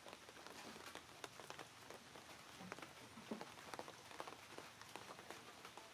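Faint, irregular patter of raindrops over a soft hiss.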